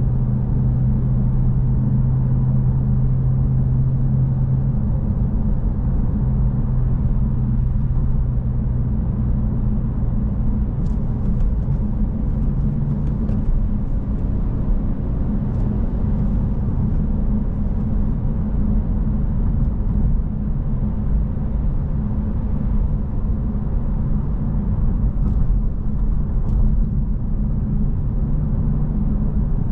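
Stock 2025 Honda Civic Si's 1.5-litre turbocharged four-cylinder engine running under way, with tyre and road rumble: a steady low drone whose engine note is strongest for the first few seconds.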